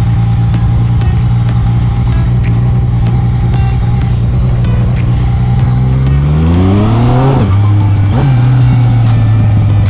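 Yamaha MT-09 motorcycle's three-cylinder engine running steadily under way, then revving up in a rising pitch about six seconds in, dropping sharply as the rider shifts up a gear, and pulling steadily again.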